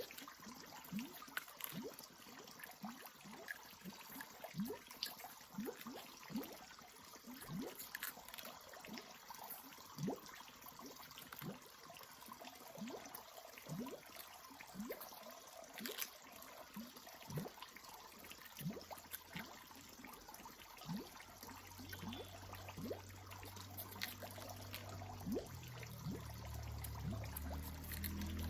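Water trickling and dripping into water, with many small bubbly plops a second. A low steady hum comes in during the last several seconds and grows louder.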